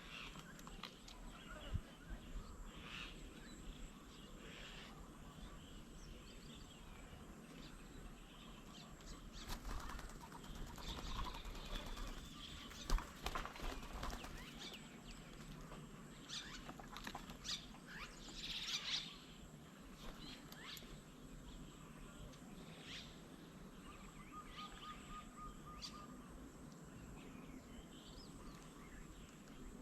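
Several wild birds calling and chirping at intervals, busiest in the middle stretch, with one sharp tap about thirteen seconds in and a short steady whistled note about twenty-five seconds in.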